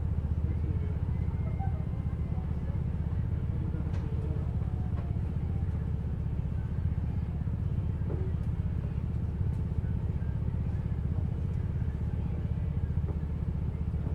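Steady low engine and road rumble of a city bus heard from inside the passenger cabin while it drives, with a couple of faint clicks.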